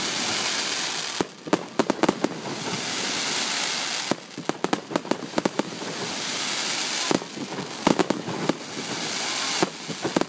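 Fireworks finale: clusters of sharp bangs from bursting shells come about every three seconds. Between them run stretches of dense crackling hiss from the glittering crackle effects.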